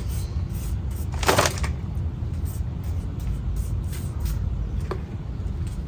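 Paintbrush strokes scratching paint stripper onto a metal mini bike frame, a series of faint brushing scrapes with one louder swish about a second in and a short click near the end, over a steady low rumble.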